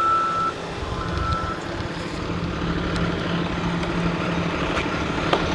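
Reversing alarm of a vehicle backing up: two short beeps in the first second and a half, the second fainter, over its engine running steadily. A few sharp clicks near the end.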